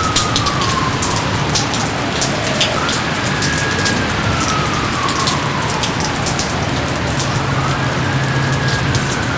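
Steady heavy rain with many separate drops pattering, behind a single high tone that climbs quickly, holds, then slides slowly down, repeating about every three seconds like a wail.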